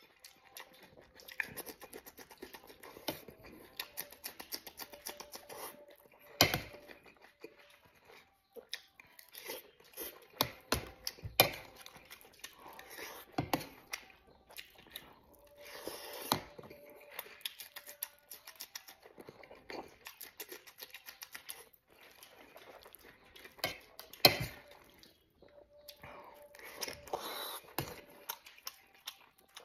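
Close-up eating sounds: wet chewing and lip-smacking of rice and braised pork, with a metal spoon scraping and clinking against an enamel plate. A few sharp knocks stand out, the loudest about six, eleven and twenty-four seconds in.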